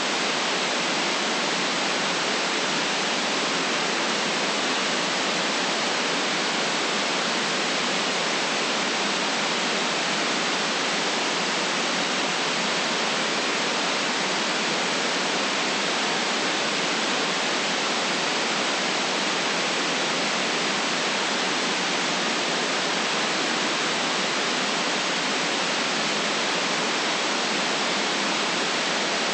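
Steady white noise: an even, unchanging hiss, strongest in the upper range, with no deep rumble.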